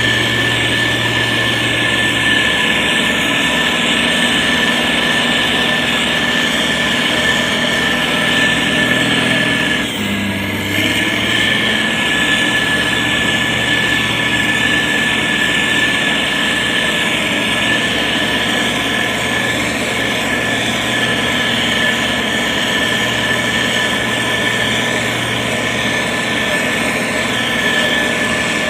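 Diesel engine of a SANY STG190C-8S motor grader running steadily while it spreads gravel, with a steady high whine over the engine. The sound dips briefly about ten seconds in.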